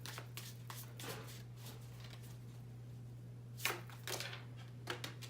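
A deck of tarot cards being shuffled by hand: a run of soft papery flicks and rustles, with a few louder card snaps toward the end as a card flies out of the deck.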